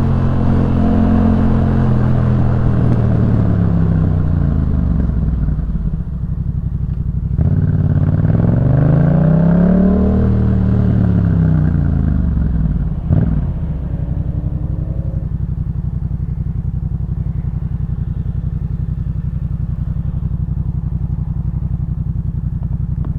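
2018 Yamaha MT-07's parallel-twin engine through a Jeskap K4 full exhaust. The engine note falls as the bike slows, then rises and falls once in a single rev. A single sharp crack comes just past the middle, and the engine then settles into a steady idle.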